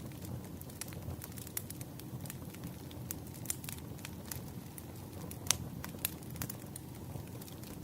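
Wood fire crackling: irregular sharp pops and snaps over a low steady rumble, with one louder pop about five and a half seconds in.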